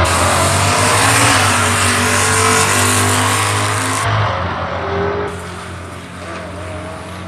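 Drag race cars at full throttle down the strip, loud for about four seconds and then fading as they pull away.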